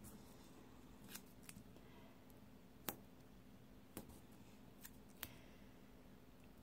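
Faint handling of planner stickers and paper over quiet room tone: a few short, sharp clicks, roughly one a second, as a crooked header sticker is lifted and re-placed.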